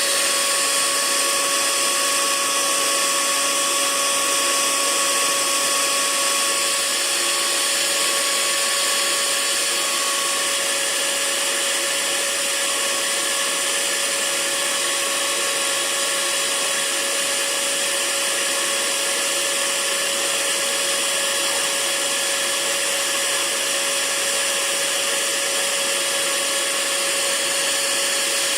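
Hair dryer running steadily: a constant rushing hiss of air with a steady motor whine.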